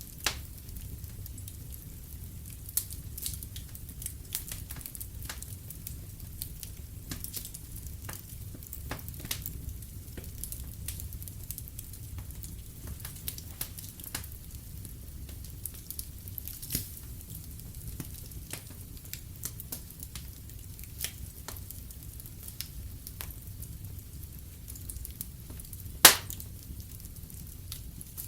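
Wood fire in a fireplace crackling, with scattered sharp pops over a low steady rumble. One loud pop comes near the end.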